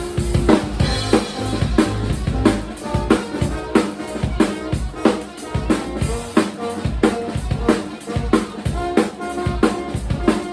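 Live band music driven by a drum kit: a steady beat of bass drum and snare hits, several a second, over held pitched instrument notes.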